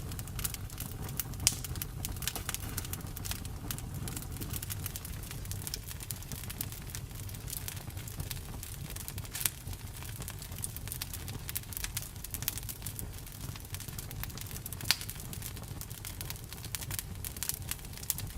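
Campfire crackling: irregular sharp pops and snaps over a steady low rumble, with a few louder pops about a second and a half in, about nine and a half seconds in and near fifteen seconds.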